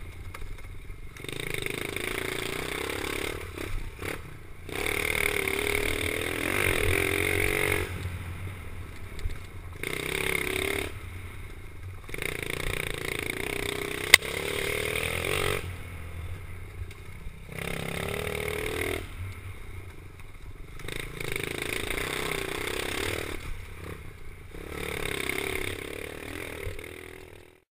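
Pit bike engine revving up and easing off over and over, swelling and fading every few seconds as the bike laps a small track. A single sharp click about halfway through.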